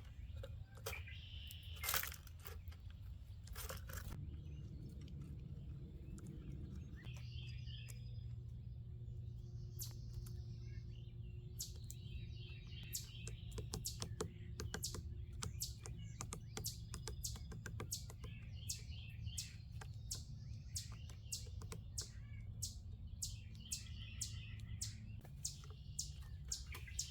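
Small birds chirping in short, scattered calls, with many light clicks or taps throughout, over a low steady hum.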